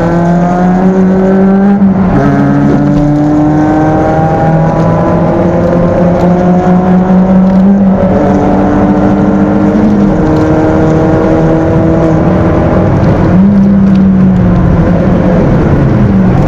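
Stock 1600cc Peugeot 206 four-cylinder engine heard from inside the cabin under hard acceleration on track. The pitch climbs slowly, then drops back suddenly at gear changes several times.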